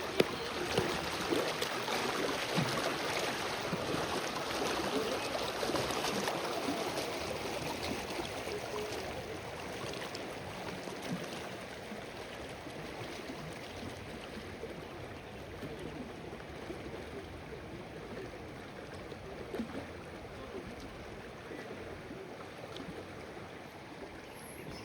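Running water babbling around a bamboo raft: a steady rush with small gurgles, loudest over the first several seconds and then slowly fading.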